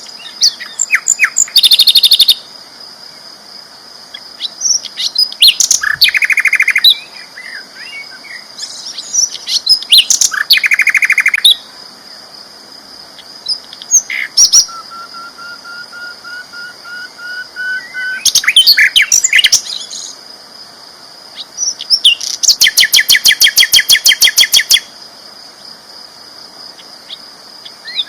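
Sikatan londo flycatcher singing loudly: bursts of very rapid repeated notes every few seconds, the longest lasting about three seconds near the end, with short chirps and whistled notes in between.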